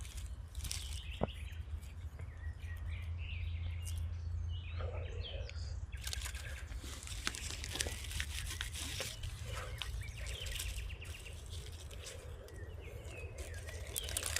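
Small forest birds chirping on and off, over rustling and crackling of leaves and twigs and a steady low rumble.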